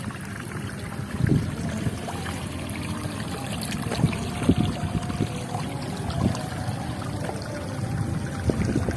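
Water trickling steadily, with low gusts of wind rumbling on the microphone.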